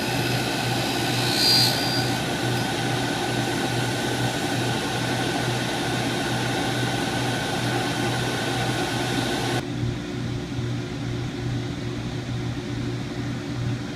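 CNC drill-grinding machine running steadily with a hum and a hiss. About ten seconds in, the higher hiss and whine drop away, leaving a lower hum.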